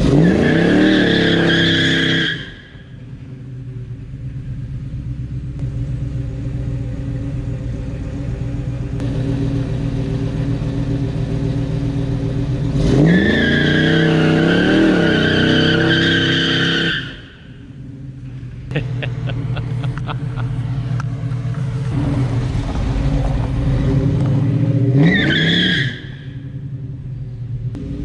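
A 1970 El Camino's V8 revved hard three times with the tyres squealing, in a burnout attempt held back by the weight of the loaded trailer; between the revs the engine idles steadily.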